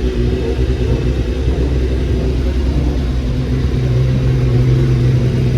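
A motor vehicle's engine running steadily with a deep rumble, growing slightly louder about four seconds in.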